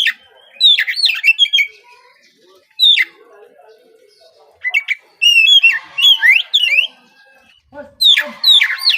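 Oriental magpie-robin (kacer) singing loud phrases of sharp, quickly rising and falling whistles. It sings in four or five bursts separated by short pauses.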